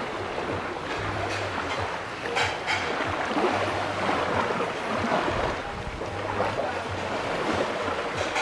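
Steady rushing noise of water and wind, like waves at sea, with a low hum that comes and goes.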